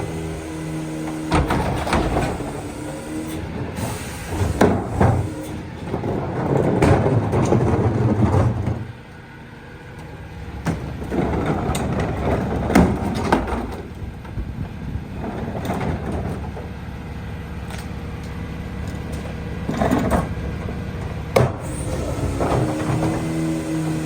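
McNeilus rear-loader garbage truck on a Freightliner EconicSD chassis running its packer to compact recyclables: the engine hums under repeated clattering and banging of material being packed. It drops quieter for a second or two about nine seconds in, then the knocks resume.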